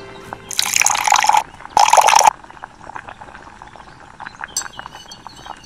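Water poured from a small clay pot into a miniature pan of gravy, in two short splashing pours about half a second and two seconds in. Near the end come light clinks of a small metal spoon against a glass bowl.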